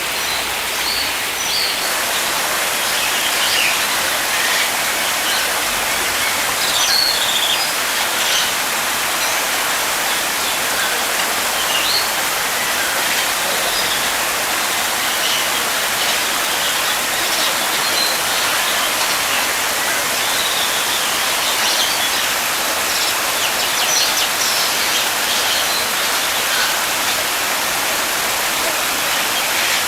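Small birds chirping now and then over a steady rushing hiss like falling water or rain.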